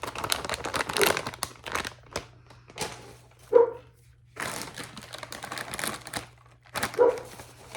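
Crunchy ridge-cut pizza potato chips being chewed, heard as two spells of rapid crackling crunches. There are short, louder low blips about three and a half and seven seconds in.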